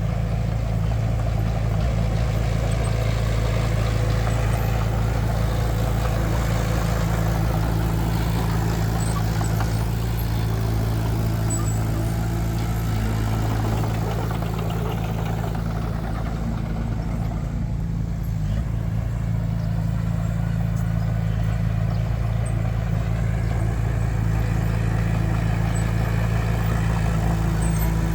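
Heavy diesel engine of construction machinery running steadily, its low hum wavering briefly past the middle.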